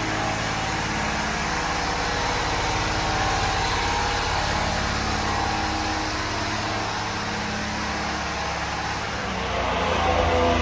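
1996 Honda Acty mini truck's small three-cylinder engine idling steadily, then getting louder near the end.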